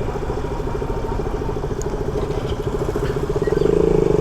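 Yamaha R15 V4's single-cylinder engine running under way on the road, a steady pulsing note that gets louder about three and a half seconds in as the throttle opens.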